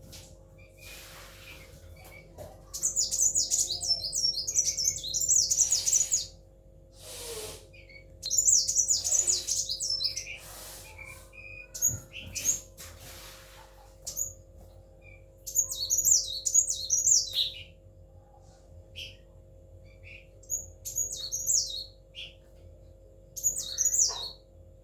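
A kolibri wulung sunbird singing in rapid, high twittering phrases. There are about five bursts of one to three seconds each, with short pauses between them.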